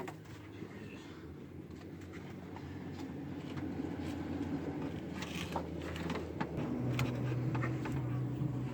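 Pickup truck engine idling steadily with an even low hum, freshly reassembled after a thermostat replacement. It grows gradually louder and cuts off abruptly at the end.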